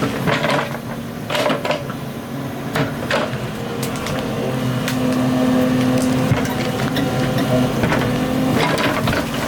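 Excavator's diesel engine running steadily, working harder for a few seconds in the middle, with scattered knocks and clanks.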